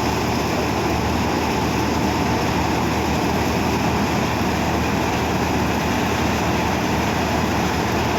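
New Holland 6010 tractor's diesel engine running steadily, with a low, unbroken hum.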